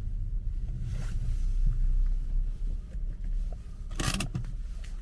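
Low rumble of a 2009 BMW 5 Series driving slowly, heard from inside the car, with one short sharp clatter about four seconds in.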